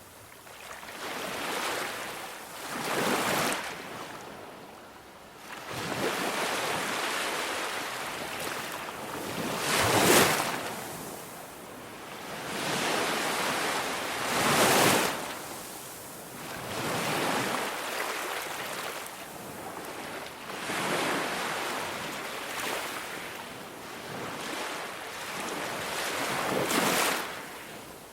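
Ocean waves breaking and washing ashore in slow swells, one surge every few seconds, with a few stronger breakers.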